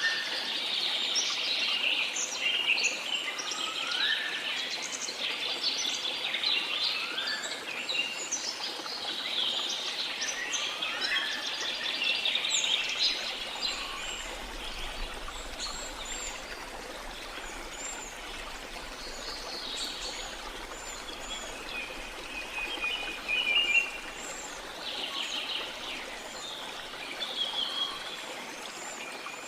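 Many birds singing and calling over a steady rush of flowing water. The chorus is dense in the first half, with a few rising whistles, and thins out later to scattered calls and a brief trill.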